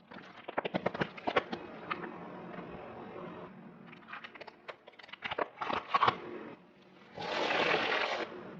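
Brittle objects crunching and cracking under a car tyre: two clusters of rapid sharp cracks, then about a second of loud hissing noise near the end.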